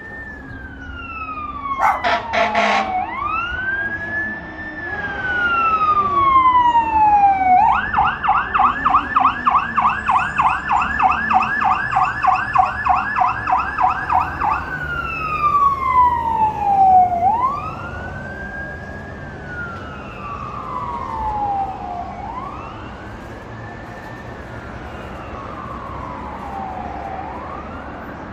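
Emergency vehicle siren sounding a slow rising-and-falling wail, switching to a fast yelp for about seven seconds in the middle, then back to the wail. A brief loud burst cuts in about two seconds in.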